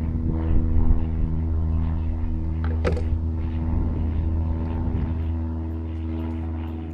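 A motor or engine running steadily with a low, even drone, with a sharp click about three seconds in.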